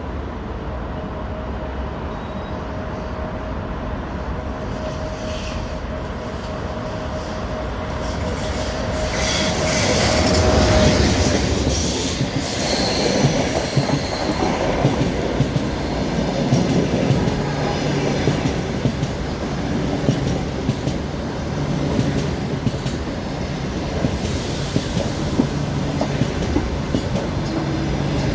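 An EP1M electric locomotive hauling a passenger train approaches and passes, growing louder to a peak about ten seconds in. The passenger carriages then roll by with a continuous clatter of wheels over the rail joints.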